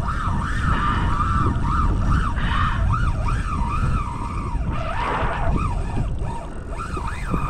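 Fishing reel drag whining as a hooked fish pulls line, its pitch rising and falling in quick waves, over wind and water rumble on the microphone.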